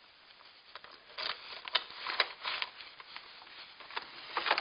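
Scattered clicks and short rustles of fumbling with a key and door lock, a handful of small knocks spread over a few seconds, the busiest near the end.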